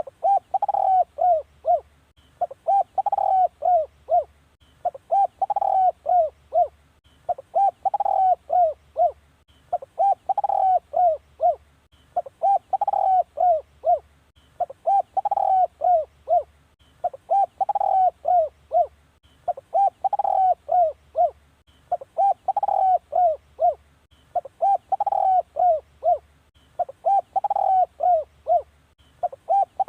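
Spotted dove cooing: a short phrase of several quick coos, repeated evenly about every two and a half seconds. It is the call used as a decoy to lure wild spotted doves.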